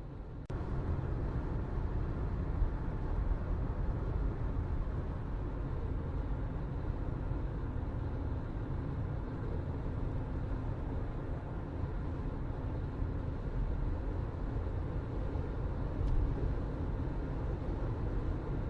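Steady low rumbling background noise with no clear tones, starting abruptly about half a second in.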